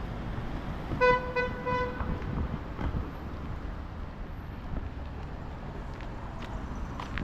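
Car horn sounding a few quick beeps about a second in, over steady street traffic rumble.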